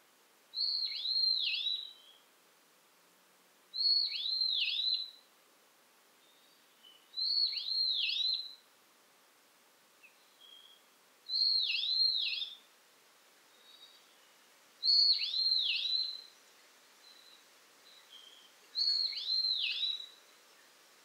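A songbird singing the same short whistled phrase six times, about every three and a half seconds, each phrase a quick run of swooping notes. Fainter chips sound between the phrases, over a soft steady forest hiss.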